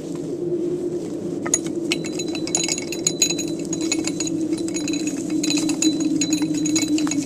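Hamilton Beach blade coffee grinder motor running with a steady hum. From about a second and a half in, rapid rattling and clinking is heard over the hum.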